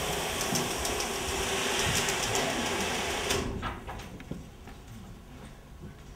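A train running on the rails, a steady rattling noise full of small clicks, which cuts off abruptly about three and a half seconds in and leaves a much quieter background with a few faint knocks.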